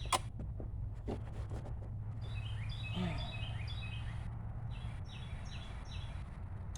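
A songbird singing runs of short, quickly repeated chirps that each slide downward, in two bursts, over a steady low outdoor rumble. A sharp click sounds just after the start.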